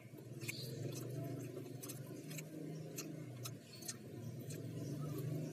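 A person chewing fried chicken nugget with mouth-close eating sounds: irregular sharp clicks and smacks, roughly one every half second, over a faint low hum.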